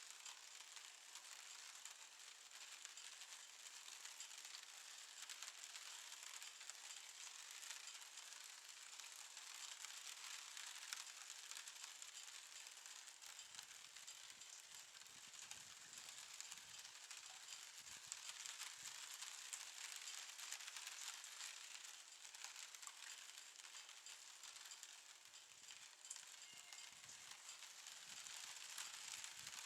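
Faint light rain pattering, a fine crackling hiss of drops. A faint low rumble joins in about halfway through.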